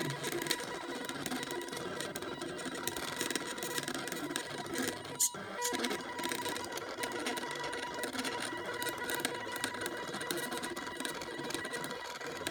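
Small Arduino CNC plotter drawing, its scrap-DVD stepper motors giving a steady buzzing whine with a high tone, with a brief pause about five seconds in.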